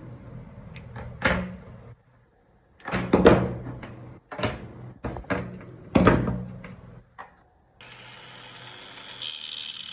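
A run of sharp knocks and clunks, as of hard parts being handled and set down on a bench, the loudest about three and six seconds in. Near the end a steady whirring hiss with a faint whine in it starts and grows louder.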